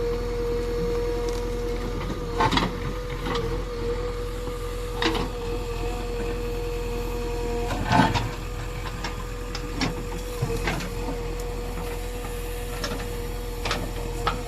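JCB 3DX Eco Xpert backhoe loader's diesel engine running steadily with a constant whine, broken by about five sharp knocks a few seconds apart from the working digger, the loudest a little past the middle.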